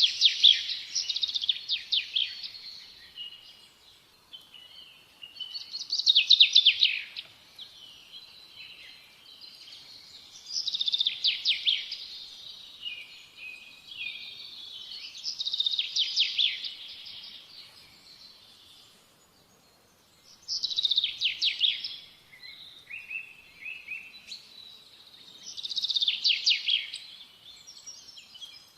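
A bird singing in repeated bouts, one roughly every five seconds, each a quick, high trill of rapid notes lasting a second or two, with softer twittering in between.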